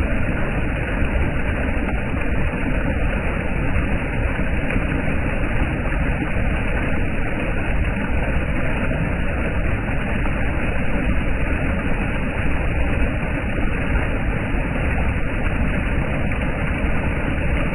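Floodwater pouring over an overflowing dam as a steady, loud rush with a deep low rumble.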